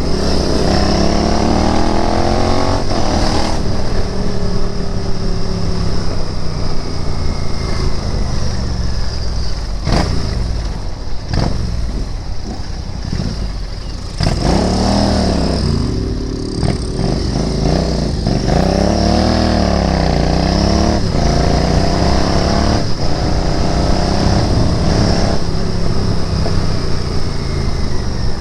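Royal Enfield Interceptor 650's parallel-twin engine under way, pulling up in pitch and dropping back at gear changes, easing off for a few seconds around the middle, then picking up and revving up and down again.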